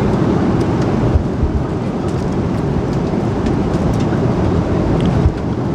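Steady roar of an airliner cabin in flight, engine and airflow noise low and even, with a few light clicks and two small knocks, one about a second in and one near the end.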